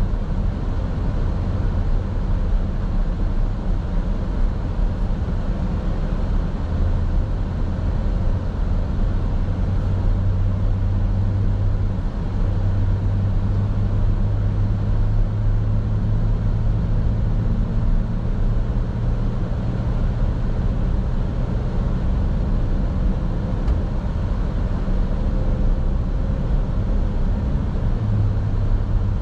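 A car's steady engine and road noise heard from inside the cabin while driving, a low hum that shifts slightly in pitch now and then.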